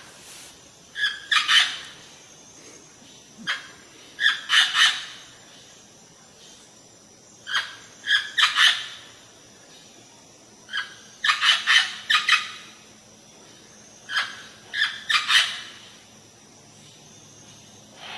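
Parrot giving harsh, shrill screeching calls in bursts about every three to four seconds. Each burst is a short call followed by a cluster of several louder screeches.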